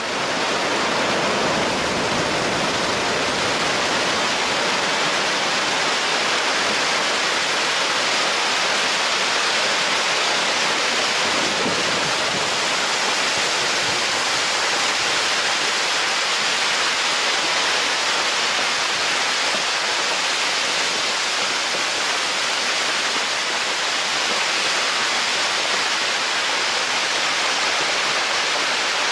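Steady, even rushing noise with no breaks or changes, starting abruptly at a cut.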